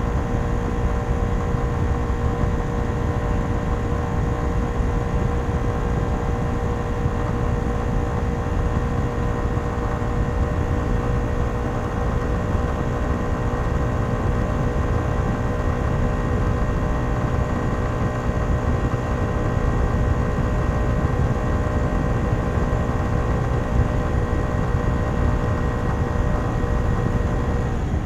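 Kymco Downtown 125i scooter's single-cylinder 125 cc four-stroke engine running through its stock exhaust, holding a steady pitch while cruising, with heavy low wind and road rumble underneath. Near the end the engine note drops a little as the scooter eases off.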